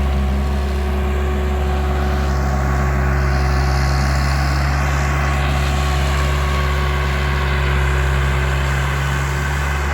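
An engine running at a steady speed, a deep even hum with no revving, with a stretch of higher hiss a few seconds in.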